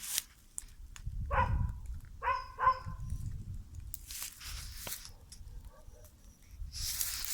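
A dog barks three times, short, fairly high barks in quick succession, with two bursts of rushing hiss later on.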